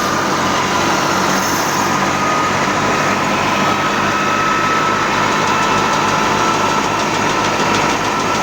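Al-Ghazi tractor's diesel engine running steadily while driving a mustard thresher, with a thin steady high whine over the engine note.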